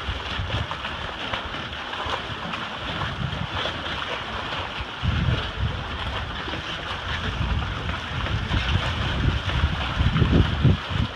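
Gusty wind buffeting the microphone in low rumbles that swell and fade, over a steady rush of wind and water.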